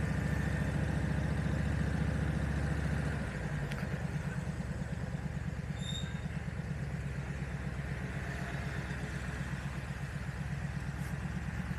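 Motorcycle engine idling with a steady low beat; about three seconds in it gets a little quieter and the beat becomes more distinct. A short high beep about six seconds in.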